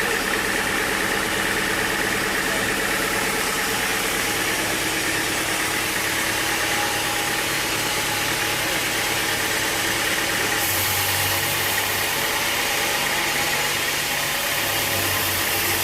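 An engine running steadily, with a change in its low tone about ten and a half seconds in.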